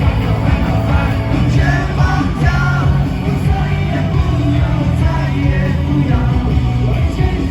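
Live rock band playing a loud, driving up-tempo song, with heavy bass and drums and singing over it.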